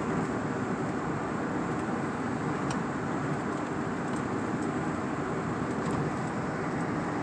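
Steady road noise heard from inside a moving vehicle's cabin: an even rush of tyre and wind noise under a low engine hum, holding the same pace throughout.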